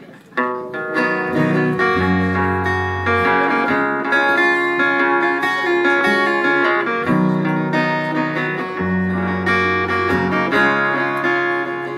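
Acoustic guitar playing the chord intro to a song, starting about half a second in.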